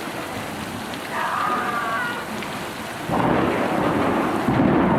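Steady heavy rain falling on water and surfaces. A short high-pitched call sounds about a second in, and a louder low rumble sets in abruptly about three seconds in.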